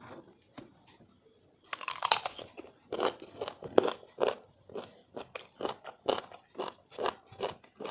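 Close-up crunching bite into a firm sour mango, then steady crunchy chewing at about two chews a second.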